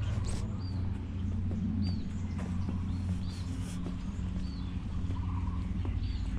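A bird repeating a short, high, arched chirp about once a second, over a steady low hum.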